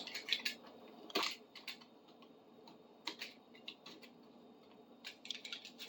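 Faint, scattered clicks and light scrapes of hand work on a metal bar clamp, chipping dried glue off it, with a quick run of clicks near the end.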